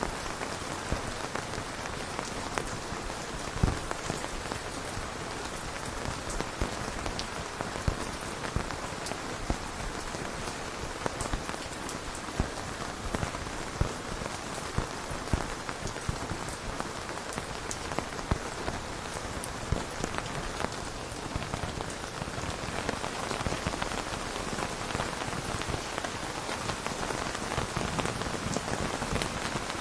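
Steady rain falling on a surface, with many individual drops ticking sharply through the even hiss.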